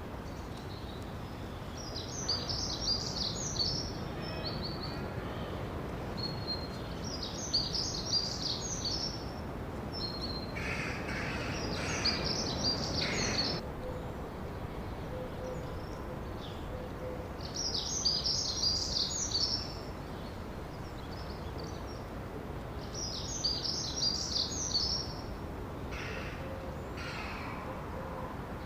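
A songbird singing a short, high phrase over and over, about every five seconds, over a steady outdoor noise haze. Another bird gives a few lower calls twice, in the middle and near the end.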